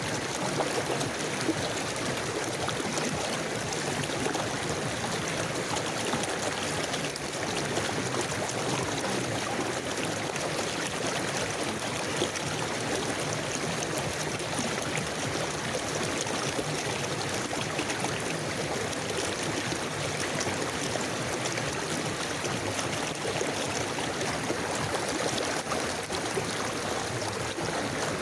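A river flowing steadily, water babbling and trickling over stones with a continuous rushing hiss.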